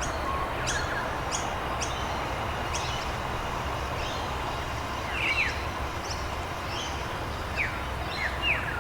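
Steady rain with songbirds chirping over it: short, quick falling chirps scattered throughout, clustered about five seconds in and again near the end.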